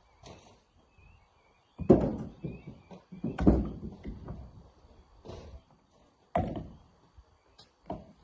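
Heavy, irregular thuds of rock on rock and metal as rocks are broken and loaded by hand, four main knocks with the loudest two about two and three and a half seconds in.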